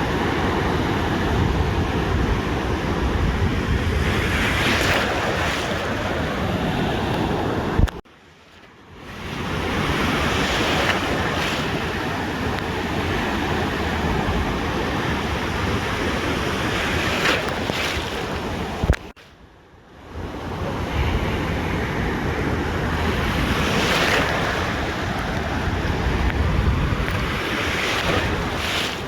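Ocean surf washing onto a beach, a wave surging in every six seconds or so, with wind rumbling on the microphone. The sound cuts out abruptly twice, about eight and nineteen seconds in, each time with a click, then fades back in.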